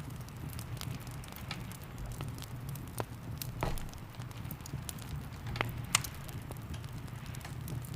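Log fire crackling and popping in irregular sharp snaps, the loudest about six seconds in, over a steady low rumble.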